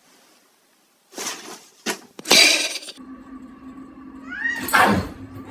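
A cat making short, breathy, noisy sounds and one brief rising call, with a steady electrical-sounding hum behind it from about three seconds in.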